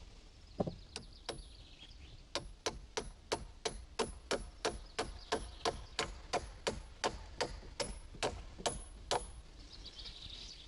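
Hammer blows, a steady run of about twenty strikes at about three a second, each with a short metallic ring.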